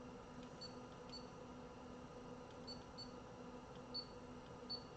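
Faint steady electrical hum with about six short, high clicking blips spread through it, the loudest about four seconds in.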